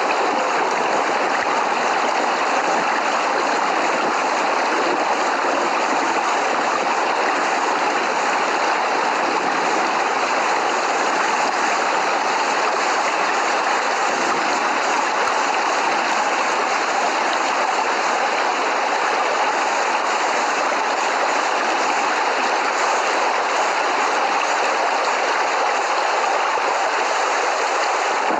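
Steady heavy rain, an even, unbroken hiss with no thunder.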